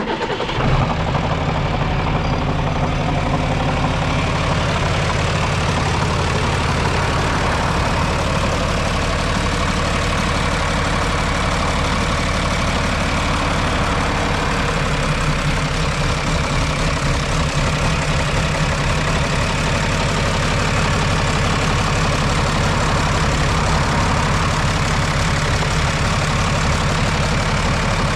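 John Deere tractor diesel engine running steadily at idle.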